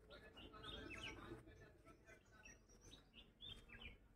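Faint birdsong over near silence: a cluster of short, quick chirps from about half a second to a second and a half in, and another brief cluster near the end.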